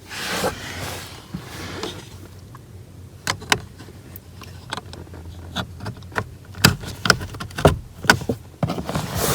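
Rustling, then a scattering of sharp plastic clicks and knocks: an OBD11 dongle being handled and pushed into the car's OBD port under the dashboard.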